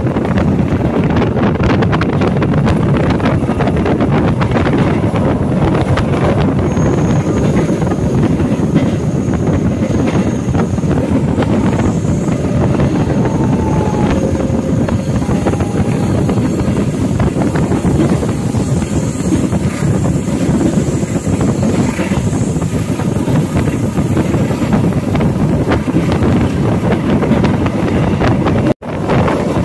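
Passenger train running at speed, its wheels and carriage noise mixed with loud rushing wind on the microphone through an open door or window. A few faint thin squeals come and go midway, and the sound cuts out for an instant near the end.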